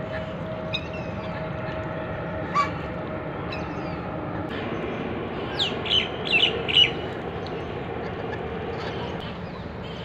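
Birds calling: a few short, scattered calls in the first seconds, then a quick run of five or six louder calls about six seconds in, over a steady background hiss.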